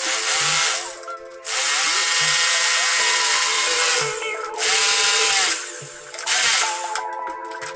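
Power drill running in several bursts, the longest about three seconds, with short pauses between them. Background music with a soft regular beat plays underneath.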